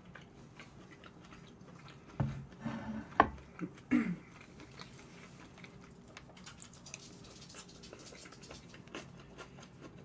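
A person chewing and eating close to the microphone, with a short cluster of mouth sounds and a sharp click about two to four seconds in. The rest is quiet room tone.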